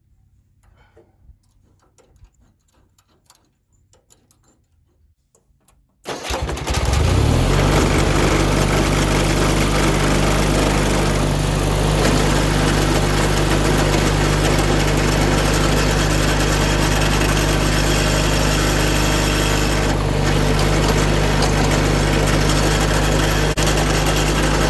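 John Deere 317 garden tractor's engine starting about six seconds in, then running at a steady speed. Before it starts there are only faint clicks of hand tools.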